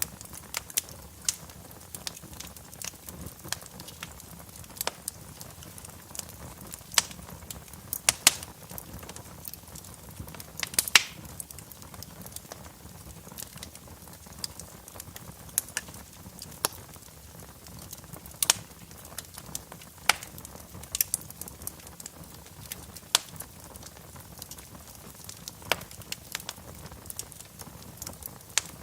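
Fire crackling in a fireplace: irregular sharp pops and snaps over a low steady hiss, with a few louder snaps scattered throughout.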